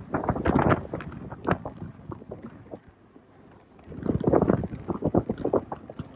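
Gusting wind buffeting the microphone in ragged blasts. It dies down to a lull about halfway through, then picks up again.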